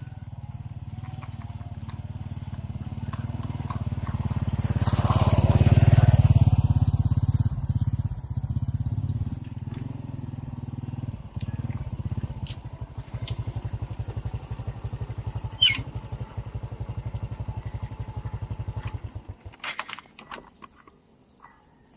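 Motorcycle engine running, growing louder to a peak with a brief rush of noise about six seconds in, then running at a steady, even beat until it cuts off abruptly near the end.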